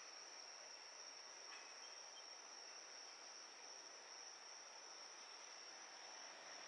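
Faint, steady high-pitched trilling of insects in the open air, one unbroken note with no train sound yet.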